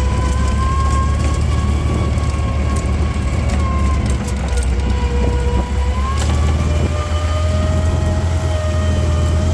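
Volkswagen Kübelwagen's air-cooled flat-four engine pulling the car along a rough dirt track, heard from inside the open car. There is a steady low drone and a whining tone that changes pitch about six seconds in.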